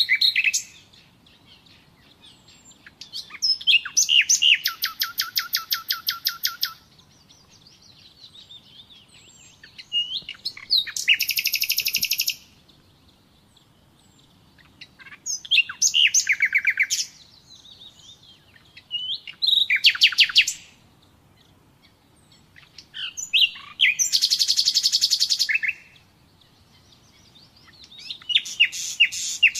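Common nightingale singing: phrases of one to four seconds each, built of rapid runs of repeated notes and trills, with pauses of a few seconds between them, about six phrases in all.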